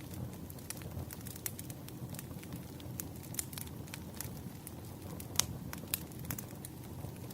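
Burning firewood crackling: irregular sharp pops and snaps over a low steady rumble of flames, with one louder pop a little past the middle.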